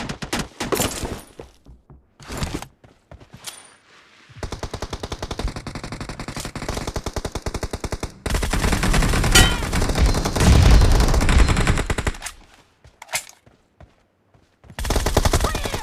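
Video-game gunfire: scattered single shots in the first few seconds, then a long burst of rapid automatic fire from about four seconds in. It gets louder and heavier about eight seconds in, stops about twelve seconds in, and another short burst comes near the end.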